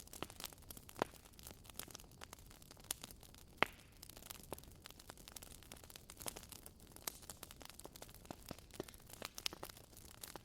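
Wood fire crackling in a fireplace: irregular small pops and snaps over a low steady rumble, with two sharper pops about one and three and a half seconds in.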